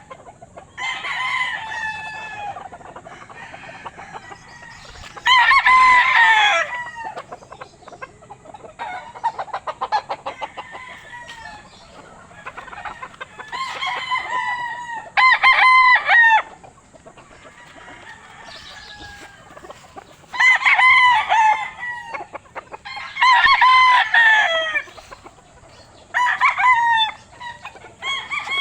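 Rooster crowing again and again, about seven loud crows of a second or so each, with softer clucking between the crows.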